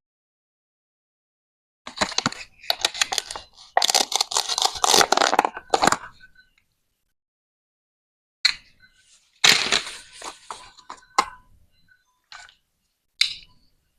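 Plastic toy vegetables being cut apart with a toy knife: crackling, scraping clicks in two spells, then a couple of single sharp plastic clacks near the end.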